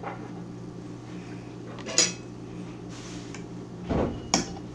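Dishes and glassware clinking and knocking as they are handled: about four separate strikes, the loudest about two seconds in and a dull knock followed by a sharp clink near the end, over a steady low hum.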